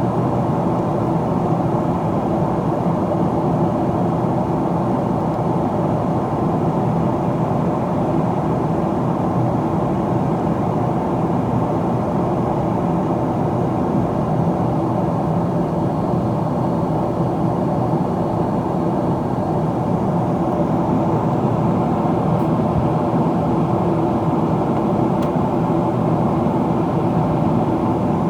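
Steady cabin noise of a Boeing 777-300ER in descent: a constant rush of airflow with the low hum of its GE90 engines at reduced thrust.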